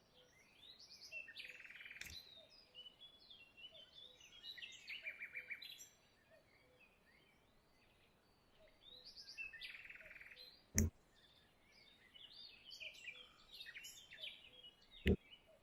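Songbirds chirping and singing in short repeated phrases, with three sharp clicks: a faint one about two seconds in, and two loud ones in the second half.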